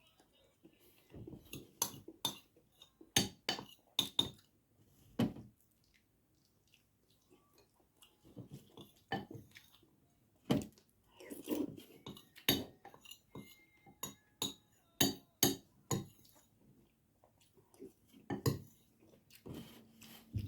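Metal spoon and fork clinking and scraping against a plate: sharp, irregular clinks with short quiet gaps between them.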